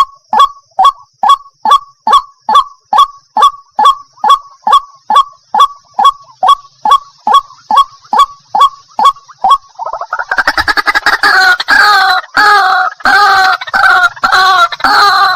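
White-breasted waterhen (ruak-ruak) calling: a regular series of short notes, about two and a half a second, each dropping in pitch. About ten seconds in, it breaks into denser, harsher rapid chattering calls. A faint steady high tone runs under the first part.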